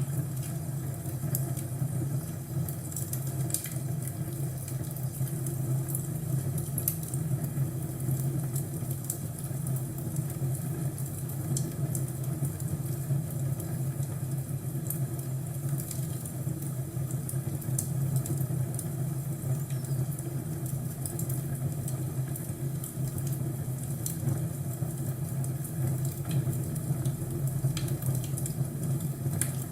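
Crackling fireplace: a steady low rumble of burning wood with scattered sharp crackles and pops.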